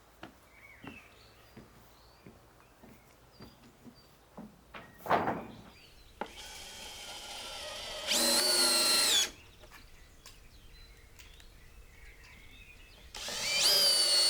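Cordless drill running in two bursts: the first starts softly about six seconds in, goes to full speed for about a second and stops; the second starts near the end. Light knocks and a short thump come before the first burst.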